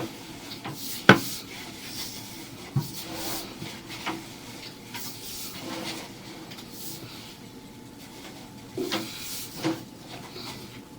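Sewer inspection camera's push cable being fed by hand into the drain: irregular knocks, clunks and rubbing as the cable and reel are worked, with the sharpest knock about a second in and a few more near the end.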